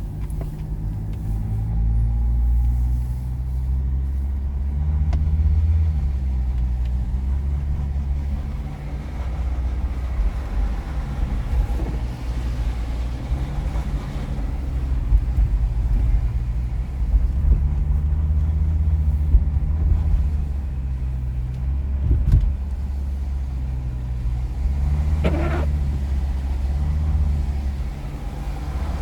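Jeep Grand Cherokee 2.7 CRD five-cylinder common-rail diesel engine running with a low hum whose pitch rises and falls again and again; this is the strange engine noise the owner is showing. A few short sharp sounds stand out, the clearest about 25 seconds in.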